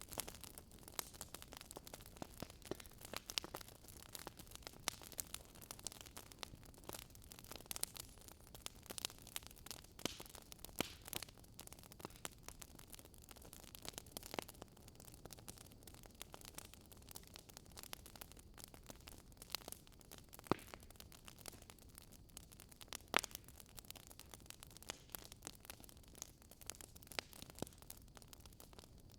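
Wood campfire crackling: irregular sharp pops and snaps over a faint steady hiss, a few pops standing out louder.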